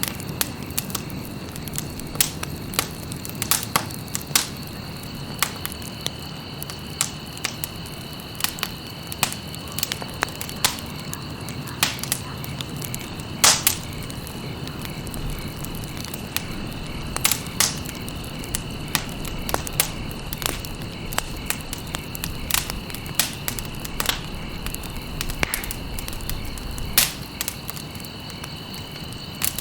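Wood campfire burning, crackling with irregular sharp pops of varying loudness over a low rushing of flame. A steady high-pitched whine runs underneath.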